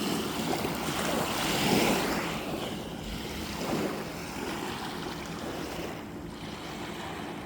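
Moving water washing in surges, like waves, with wind noise on the microphone; the wash swells loudest about two seconds in and eases off later.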